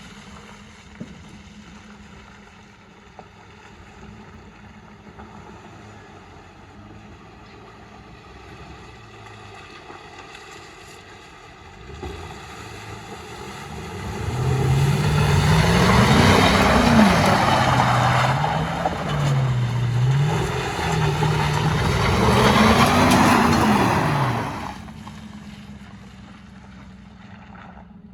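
Vehicle engine running, the sound swelling after about twelve seconds of a low steady hum. For about ten seconds its pitch rises and falls over and over, as if being revved or changing speed, before it fades back down.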